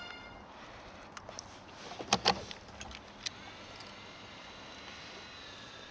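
Music ends at the start, then a few light clicks and knocks, two of them close together about two seconds in, over a faint steady high hum.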